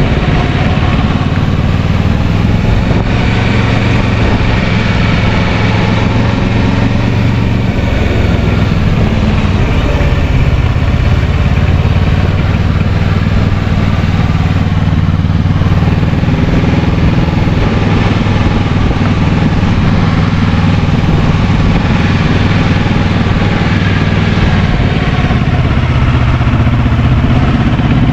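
Kawasaki Versys 650 parallel-twin engine running steadily while the bike is ridden. Its pitch shifts a little with the throttle.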